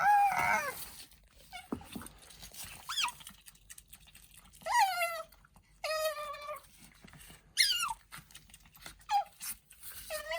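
Asian small-clawed otter squeaking: a string of about six short, high calls, most sliding down in pitch, with short gaps between them.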